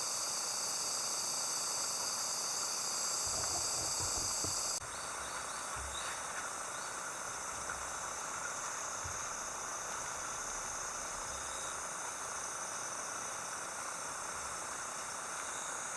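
Steady high-pitched chorus of summer insects chirring, with a few faint low knocks; the sound changes abruptly about five seconds in, becoming less shrill.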